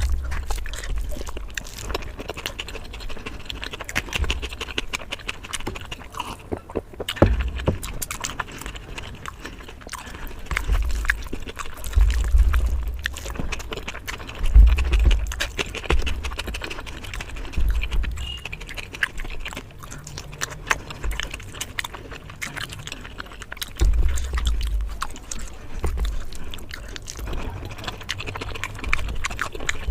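Close-miked eating: chewing and wet mouth sounds, with many small clicks and smacks and low thuds coming in clusters every few seconds.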